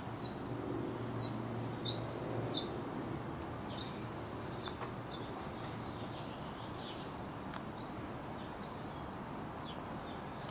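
Small birds chirping in short, scattered calls over a steady background hiss.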